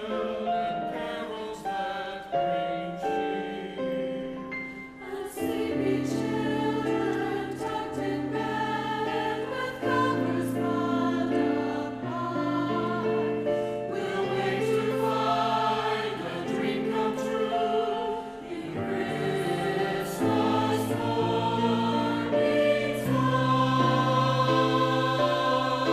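A choir singing in held chords that move from note to note. Lower parts come in about five and a half seconds in, and the sound grows fuller.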